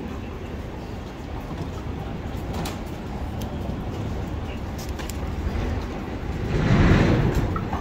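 Steady low rumble of light-rail trains standing at a station platform, with a few faint clicks and a louder swell of noise about seven seconds in.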